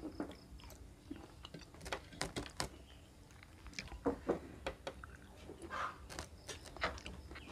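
Raw cucumber being bitten and chewed, a scattered run of short, crisp crunches.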